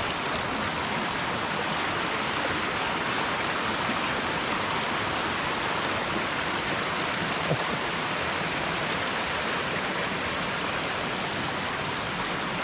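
Steady rush of flowing water from a mountain stream, with one brief click about seven and a half seconds in.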